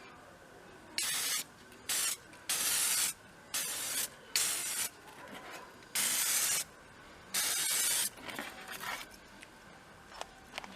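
Aerosol spray paint can being sprayed in about seven short bursts of hiss, each around half a second long, with brief pauses between them.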